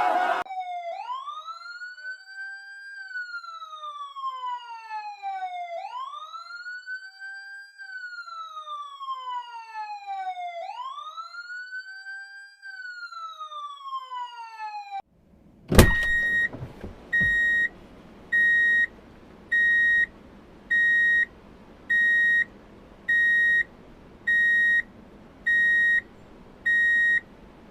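A wailing siren that sweeps up and slowly down three times, each cycle about five seconds long. About halfway through it stops with a click, and a high electronic beep then repeats about once a second over a low hum.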